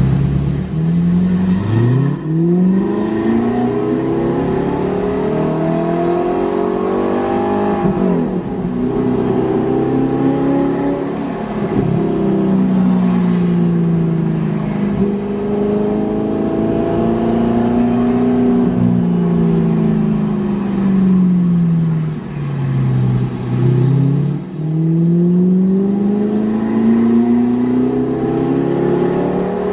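Audi R8 engine through a Kreissieg valvetronic cat-back exhaust, driven on the street: the exhaust note climbs as the car accelerates, falls away as it eases off, and does this repeatedly.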